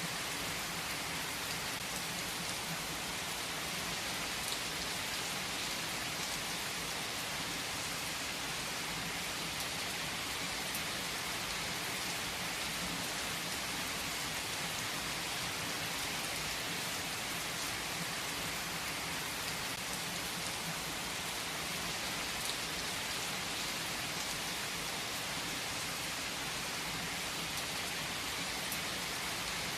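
Steady, heavy rain falling on a surface, an even hiss with a few sharper drop ticks here and there.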